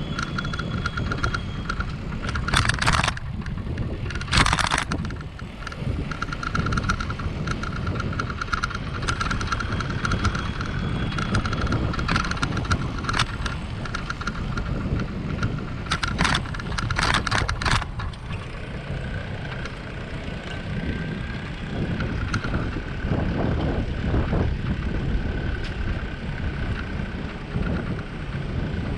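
Bicycle ride recorded on a bike-mounted action camera: a steady rumble of tyres and wind with a faint steady whine. Short rattling bursts come at about three and four and a half seconds and again in a cluster around sixteen to eighteen seconds.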